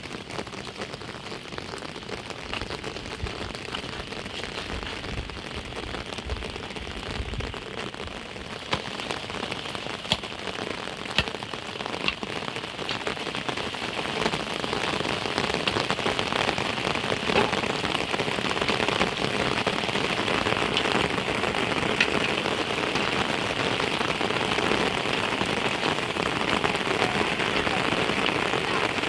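Heavy rain falling and pattering on a surface, with scattered sharper drop hits. The rain grows heavier about halfway through.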